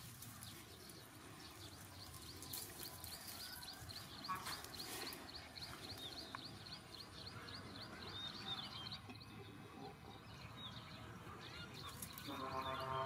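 A bird calling a rapid series of short, high notes, about four or five a second, for several seconds. Near the end there is a brief low voice.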